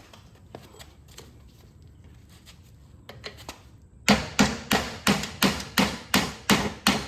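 Hammer blows on a bolt used as a drift, driving the spindle shaft out of a John Deere 318 mower deck hub: after a few light taps and clicks, a steady run of about ten sharp metal strikes, roughly three a second, starts about four seconds in.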